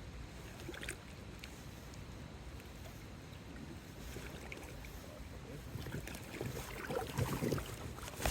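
Faint on-the-water ambience: a low wind rumble on the microphone with a few light clicks, getting a little busier and louder near the end.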